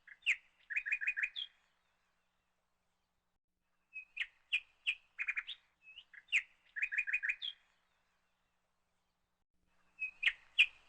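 A small songbird chirping: a phrase of quick, sharp chirps ending in a fast trill. The same phrase comes again about four seconds in and once more near the end, with silent gaps between.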